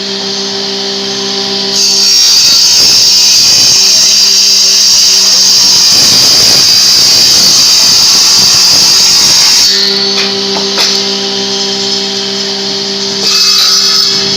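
An electric power tool working wood: the motor hums steadily running free, then bites in with a loud hiss for about eight seconds. It runs free again and starts cutting again near the end.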